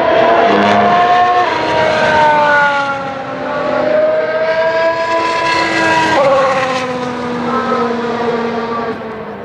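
A 2019 Formula 1 car's turbocharged 1.6-litre V6 hybrid engine at high revs on track, its pitch climbing and then dropping sharply at upshifts about a second and a half and six seconds in, and fading slightly near the end.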